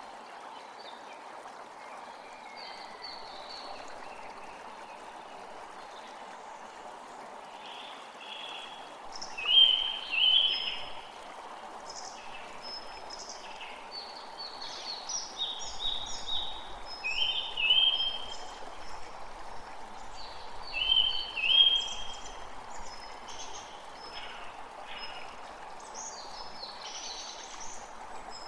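Steady rush of a flowing stream with birds calling over it in short, repeated notes, loudest in bursts about ten, eighteen and twenty-one seconds in.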